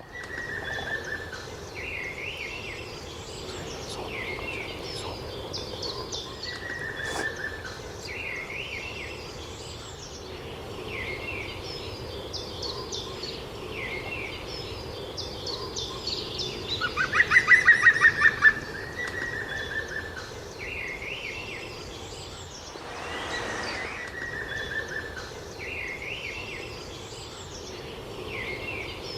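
Several wild birds singing and calling, with short chirps and falling trills repeating throughout. A little past halfway comes one loud, rapid series of about a dozen sharp notes.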